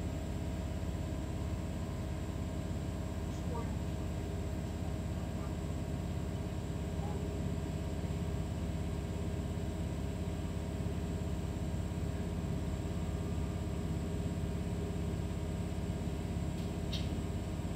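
DB class 628 diesel railcar's engine running steadily, with a low drone and a steady high turbocharger whine. A short click near the end.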